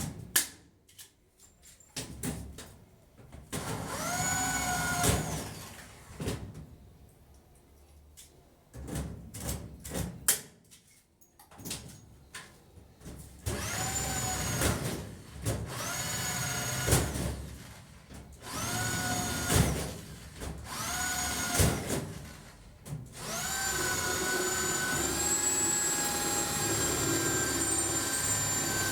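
Electric drill running in short bursts. Each burst is a whine that climbs quickly and then holds a steady pitch, with clicks and knocks between the bursts. A longer steady run starts near the end.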